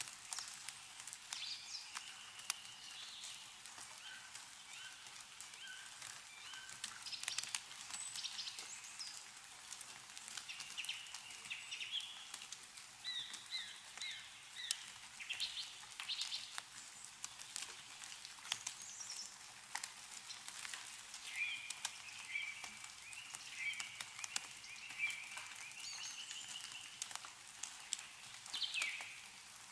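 Meltwater dripping from snow-laden trees in scattered sharp ticks, with small songbirds chirping and trilling throughout.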